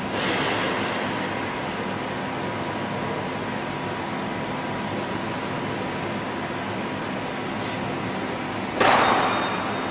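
Hitachi Seiki Hi-Turner 20 CNC lathe running with a steady hum of several held tones. A short rushing swell right at the start and a louder rushing burst near the end that fades over about a second.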